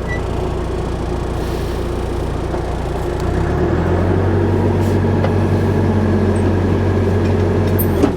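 Tractor engine running, then throttled up about three seconds in, its pitch and level stepping up and holding steady as the backhoe is worked. A short sharp click sounds near the end.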